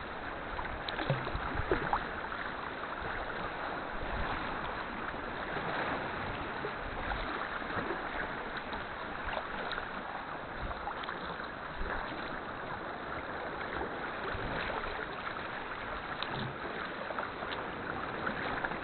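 Steady splashing and swishing of sea water around a kayak as it is paddled, with a few faint knocks.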